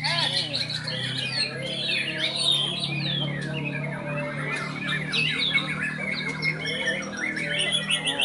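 Several caged white-rumped shamas (murai batu) singing at once: a dense, overlapping run of rich whistles, chirps and harsh notes that never stops, over a steady low hum.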